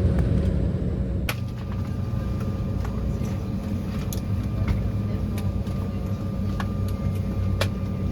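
A loud steady rumble that cuts off abruptly about a second in, replaced by a quieter steady engine hum with a few sharp clicks.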